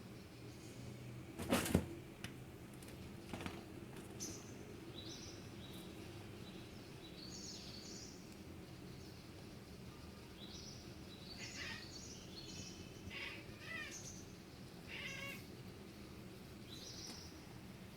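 A pet cat chattering at birds: several short stuttering bursts of rapid calls in the second half, among the high, brief chirps of small birds that come and go throughout. A single sharp knock, the loudest sound, comes about a second and a half in.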